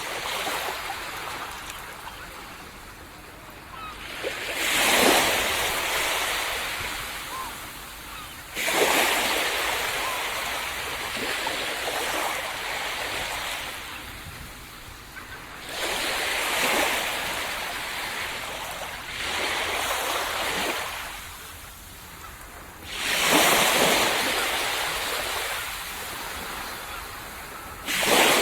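Small waves breaking on a sandy tropical beach, each one swelling in a hissing rush and washing back, about every four to seven seconds; six breaks in all.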